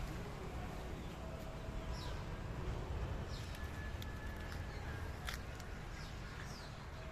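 Birds chirping: short, high calls that fall in pitch, every second or so, over a steady low rumble.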